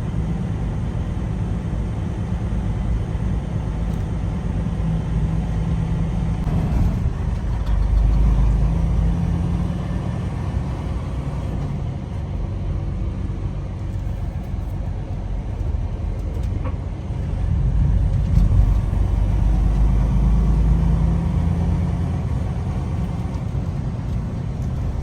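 Semi truck's diesel engine and road noise heard from inside the cab while driving: a steady low rumble that swells louder about eight seconds in and again around eighteen seconds in.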